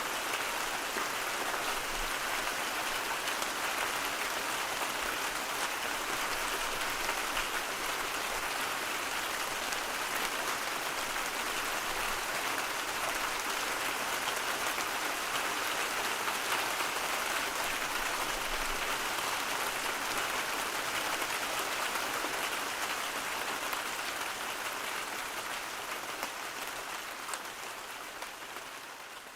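Steady white-noise ambience, an even hiss with no rhythm or tones, fading down over the last few seconds.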